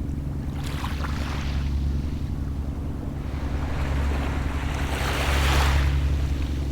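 Small sea waves washing up on the shore twice, the second wash louder, about two thirds of the way through. Under them runs a steady low drone, typical of a distant boat's engine.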